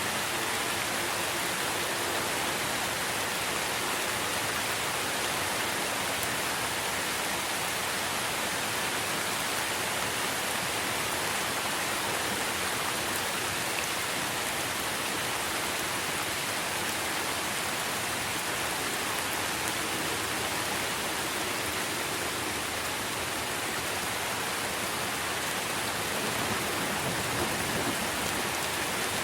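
Steady rain falling on tree foliage, a dense, even patter that holds level throughout.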